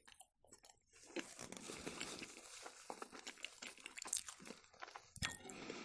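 Faint close-up chewing of beetroot salad: soft, moist crackles and small mouth clicks, starting about a second in.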